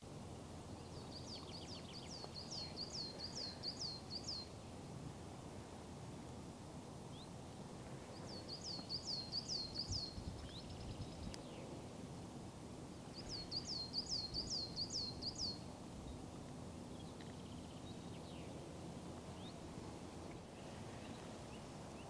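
A songbird singing three phrases a few seconds apart, each a run of about eight quick, high, repeated notes, over a faint steady background of open-air noise.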